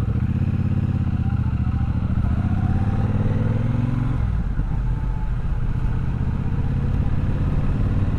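Triumph Bobber's 1200 cc parallel-twin engine accelerating, its note rising steadily for about four seconds, then easing off to a lower, steadier run.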